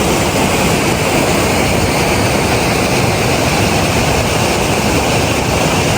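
Aira Force waterfall rushing: a loud, steady, unbroken noise of falling water.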